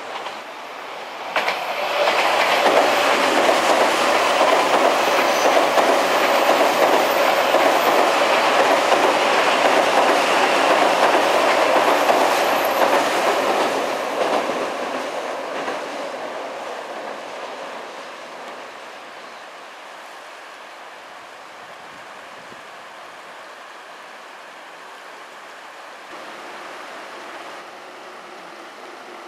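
An Odakyu electric train crossing the river bridge, its wheels clattering over the rail joints; it comes on suddenly about a second and a half in, stays loud for about twelve seconds, then fades away. After it, a steady rush of river water.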